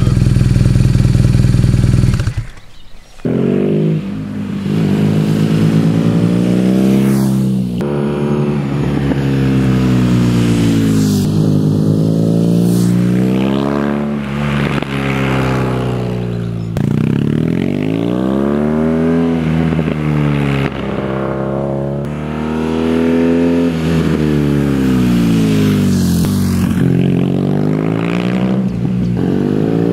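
BMW R nineT's boxer twin breathing through an Akrapovič silencer. It runs steadily for about two seconds, then after a brief drop it accelerates and eases off several times, its pitch climbing and falling with each pull.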